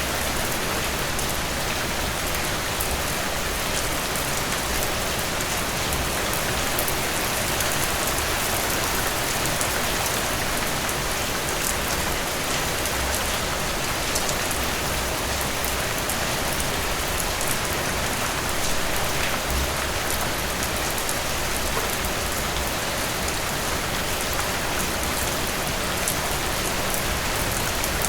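Steady rain falling on a surface, a dense even hiss with many small drop ticks and no change in intensity.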